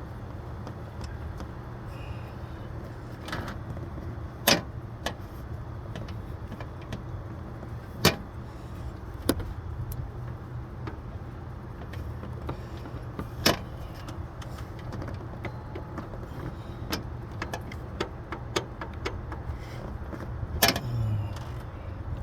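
Hand tools working on an engine: scattered metal clinks and ticks with five sharp knocks, the loudest about four and a half, eight, thirteen and a half and twenty seconds in, over a steady low hum.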